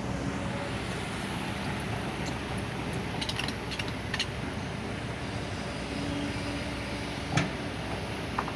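Kobelco SK200 Super X excavator's diesel engine running steadily with a hum from the machine. A quick run of metallic clicks and clanks comes about three to four seconds in, and a single knock a little after seven seconds.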